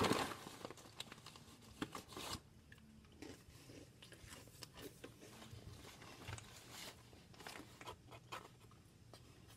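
Faint crunching of Goldfish Parmesan baked crackers being chewed: scattered crisp crunches, with a louder cluster about two seconds in.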